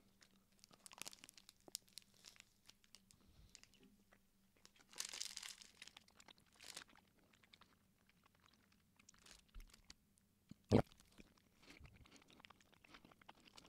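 Faint close-up chewing of a chewy chocolate-covered Turkish delight bar, with small mouth clicks and light wrapper rustling. There is a short rustle about five seconds in and one sharp knock nearly eleven seconds in.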